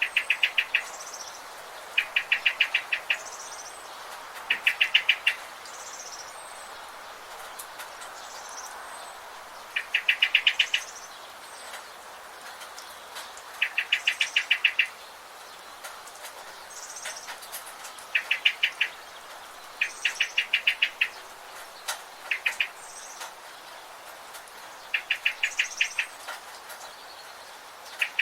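Birds calling. One repeats a short, fast trill of about ten quick notes every few seconds, while fainter high chirps come in between, over a steady soft hiss.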